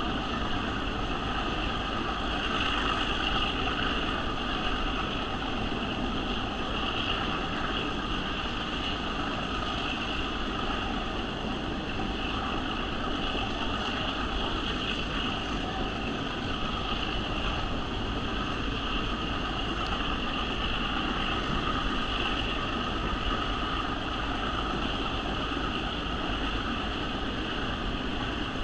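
Diesel-hauled passenger train climbing an upgrade, heard from an open-air car: a steady mix of locomotive engine running under load and wheels rolling on the rails, with wind noise.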